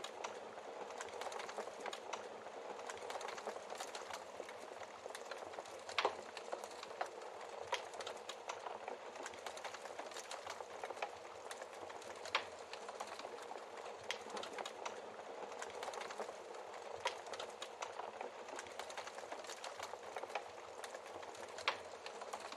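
Wood fire crackling steadily, with sharp pops from the burning logs every few seconds.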